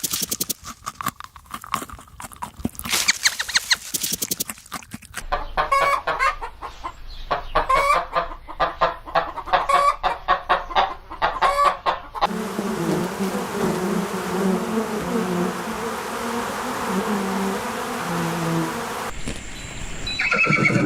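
Chickens clucking: many short, quick calls one after another. About twelve seconds in the sound changes abruptly to lower-pitched calls over a steady hiss, and a short pitched call comes right at the end.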